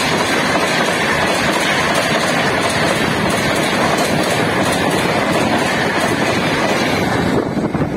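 Express passenger train passing close by at speed: a loud, steady rush of wheels on rails and coaches going by, with some clickety-clack over the rail joints. The noise drops sharply near the end.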